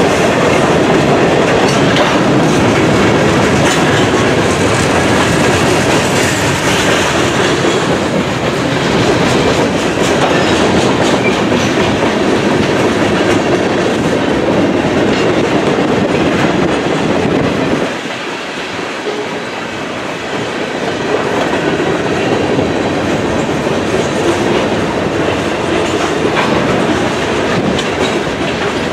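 A freight train's cars rolling past close by, their wheels clicking over the rail joints. The sound briefly drops lower and quieter about two-thirds of the way through, then picks up again.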